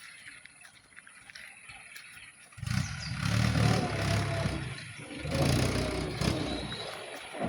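Tractor engine running, its low rumble swelling up sharply about two and a half seconds in and again a little over five seconds in.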